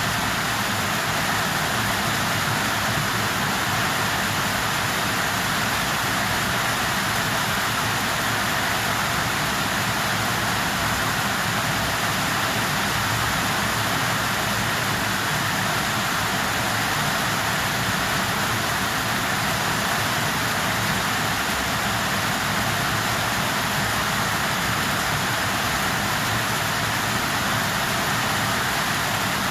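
Steady rain falling, an even unbroken hiss with no single drops or other events standing out.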